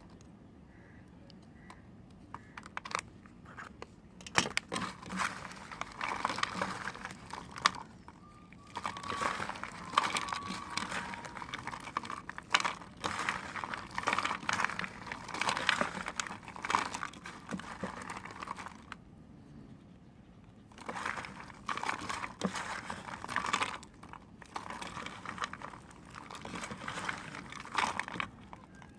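Bar soap being cut with a knife close to the microphone: crisp crunching and crackling, in many quick small scrapes. It comes in two long runs, broken by a short pause about two-thirds of the way through.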